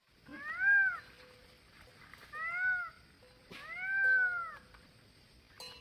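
Peacock calling: three loud, wailing cries, each rising then falling in pitch, about two seconds apart, the third drawn out longest.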